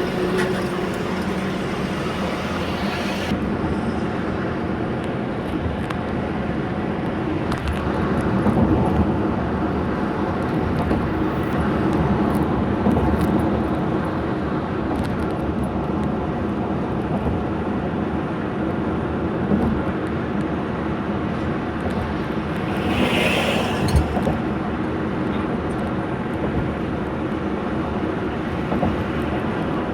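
A car driving: steady engine and road noise, with a brief high-pitched sound lasting under a second about three quarters of the way through.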